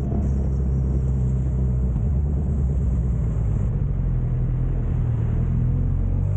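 Suzuki GSX650F's inline-four engine running at a steady pitch while the motorcycle rides in traffic.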